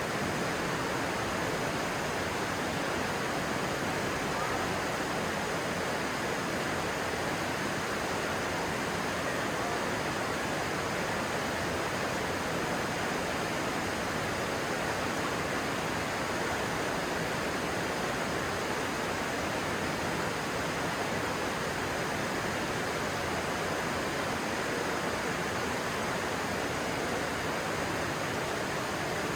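Steady rushing of a stream's flowing water, even and unchanging.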